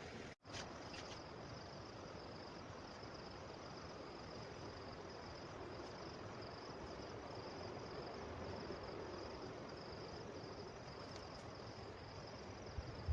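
Insects trilling steadily in one high, continuous, finely pulsing band over an even background hiss, with a brief dropout just after the start.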